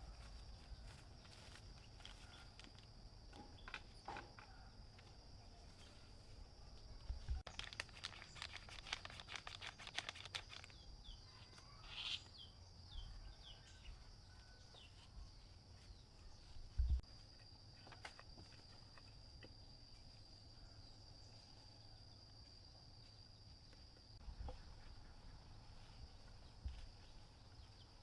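Faint countryside ambience: a steady high-pitched insect drone throughout, with a quick run of small rustling clicks about halfway through and a few short bird chirps just after.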